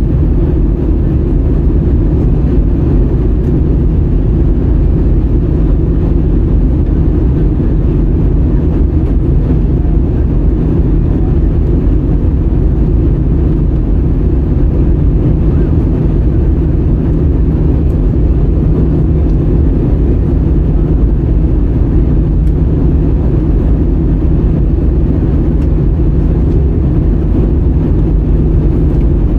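Airbus A320-200 in flight, heard inside the cabin: a steady, loud low drone of the engines and rushing air, with a faint steady hum underneath.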